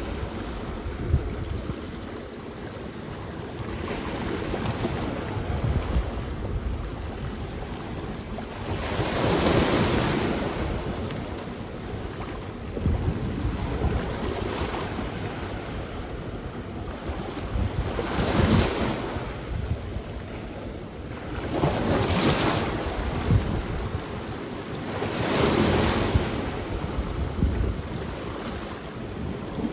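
Sea waves washing onto a beach, a steady surf noise that swells into a louder wash four times. Wind buffets the microphone, adding a low rumble.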